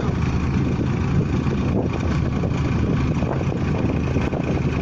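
Engine of a pneumatic drilling rig running steadily, a constant low hum with a dense mechanical clatter.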